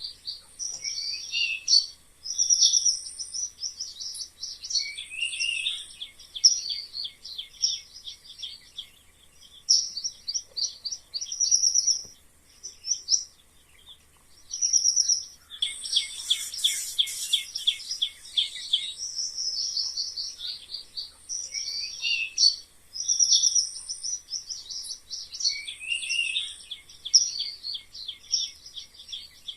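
Mice squeaking in quick high-pitched trains of chirps, some sliding down in pitch, with short pauses between bursts and a denser, louder flurry about halfway through.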